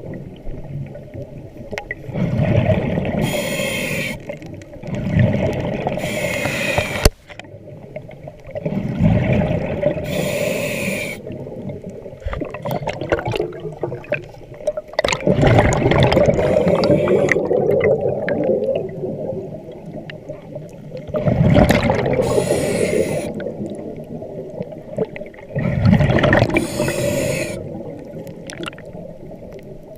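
Scuba diver breathing through a regulator underwater: a short hissing inhalation every few seconds, each followed by a longer rumble of exhaled bubbles.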